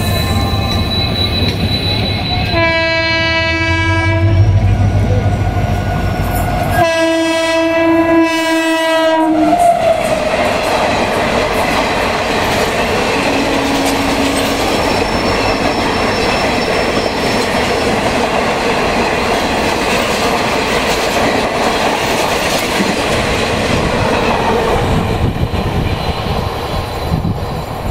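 WAP7 electric locomotive sounding its horn in two long blasts a few seconds apart, the second sliding down in pitch as it ends. A high-speed train then runs past close by, with a continuous rush and clatter of wheels on the track.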